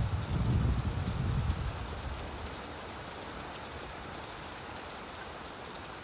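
Steady rainfall, an even hiss of many drops. A low rumble underneath dies away over the first second and a half.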